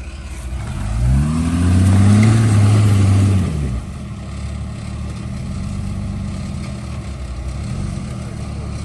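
Rock-crawling off-road rig's engine revving hard as it climbs a rock obstacle. The revs rise about a second in, hold high for about two seconds, then drop back to a steady idle.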